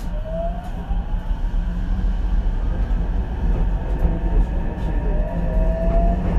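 Onboard running sound of the Ichibata Electric Railway 7000-series railcar 7001: a steady rumble of wheels on rail, with the motor's whine rising in pitch twice as the car picks up speed and grows louder.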